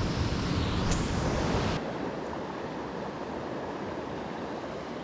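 Steady rushing of a small creek's water over rocks and falls. Low wind rumble on the microphone drops out abruptly about two seconds in, leaving the water's even rush.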